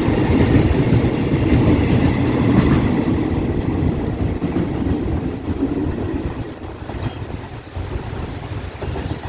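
Freight train wagons rolling past with wheels clattering over the rail joints, the rumble slowly fading in the last few seconds as the train draws away.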